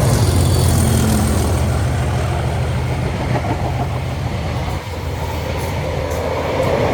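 Diesel-hauled train passing and moving away, its low engine rumble fading gradually.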